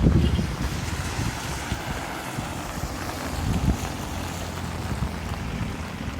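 Wind buffeting the microphone as a low rumble over steady rain, strongest in the first second and then easing.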